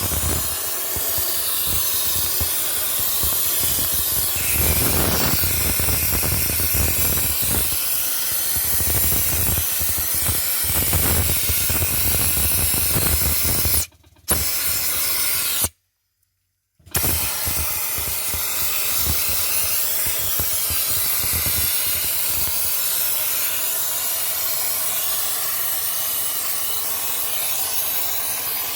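Dry ice blaster nozzle blasting an engine bay: a loud, steady hiss of compressed air and ice pellets, cut off twice briefly about halfway through.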